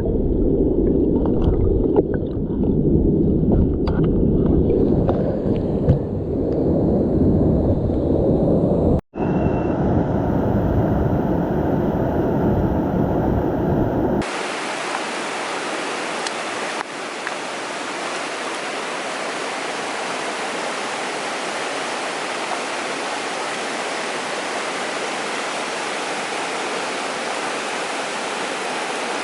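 Mountain stream water. First comes a muffled, low rumbling with small clicks and knocks. After a sudden cut about halfway, the steady, full rushing of the stream or a small waterfall takes over.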